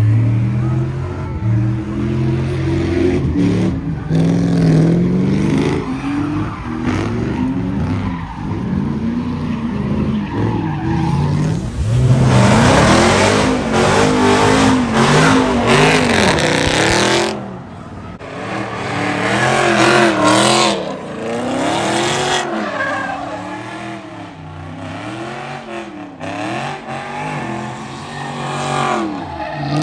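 Car engines revving up and down over and over as cars spin donuts, with a long stretch of tyre squeal from about twelve seconds in.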